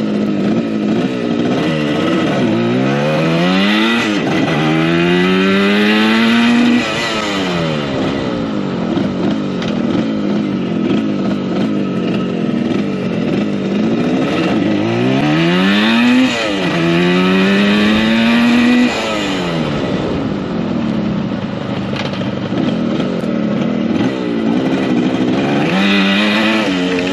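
1975 Yamaha RD200's two-stroke engine accelerating through the gears while being ridden, done twice. Each time the pitch climbs, dips at a gear change, climbs again and then drops off sharply as the throttle closes. Another climb begins near the end.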